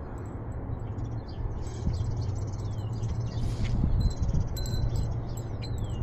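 Small birds chirping and calling: short high notes, quick trills and a few descending whistles, over a steady low rumble.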